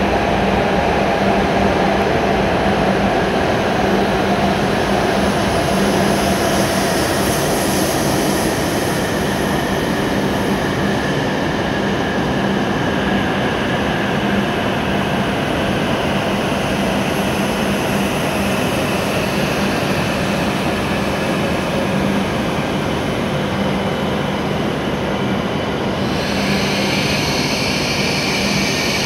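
W7 series Shinkansen train pulling slowly alongside the platform, a steady rumble and whir of wheels and traction motors as it slows. About three seconds before the end a high-pitched brake squeal joins in as the train comes to a stop.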